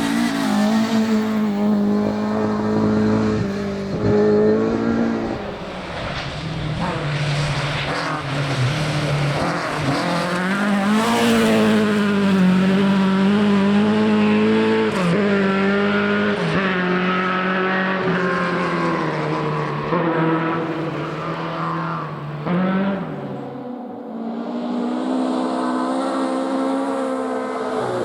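Rally car engine revving hard and pulling through the gears, its pitch repeatedly climbing and then dropping at each gear change or lift.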